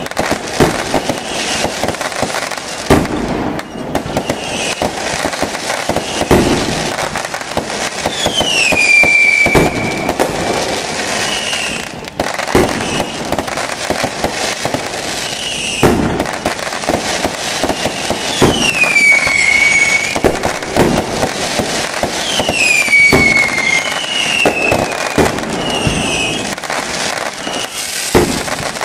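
Fireworks display: a dense, continuous run of bangs and crackles, with about four whistling shells that each glide down in pitch and then level off.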